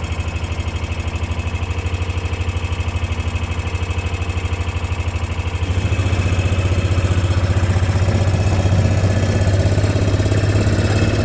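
Engine of a slow-moving vehicle running steadily, growing louder about six seconds in.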